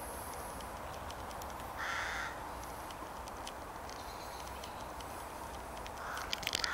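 A crow cawing: one harsh call about two seconds in and a weaker one near the end, over steady background noise.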